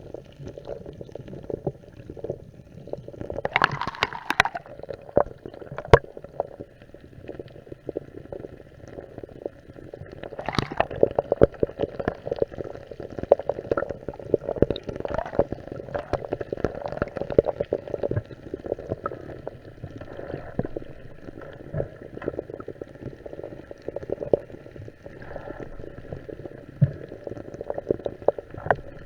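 Muffled underwater gurgling and water movement picked up by a camera in a waterproof housing, with many scattered sharp clicks and louder bursts of bubbling about 4 and 10 seconds in.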